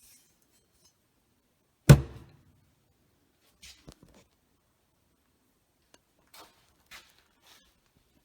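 One loud, sharp knock about two seconds in with a short ringing tail, followed by several faint knocks and clicks.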